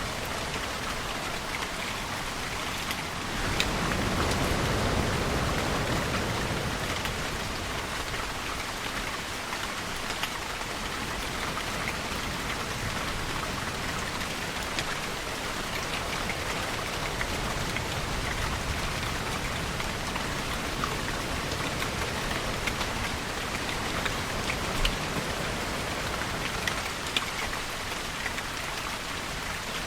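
Steady rain falling, with scattered individual drop ticks. A louder, deeper swell rises about three and a half seconds in and eases off over a couple of seconds.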